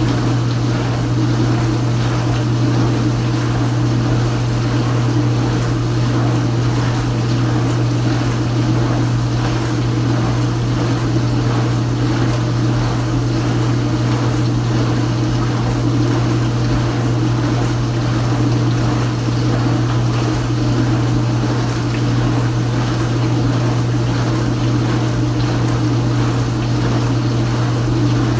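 Kenmore Ultra Wash 3 dishwasher's circulation pump running steadily with a low hum, spraying water inside the tub during its final hot rinse.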